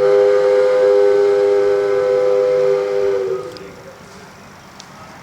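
Train whistle blowing one long, steady two-note chord. It starts abruptly and stops after about three seconds.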